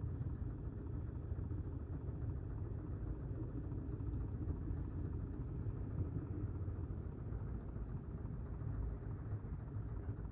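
Steady low rumble with no distinct tones, and a faint brief tick about five seconds in.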